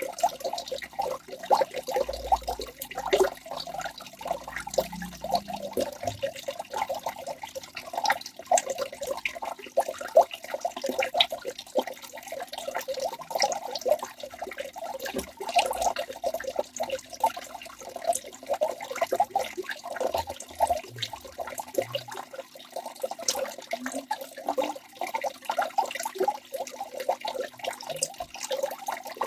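Waterfall: water falling and splashing steadily, a dense, unbroken patter of small splashes and gurgles.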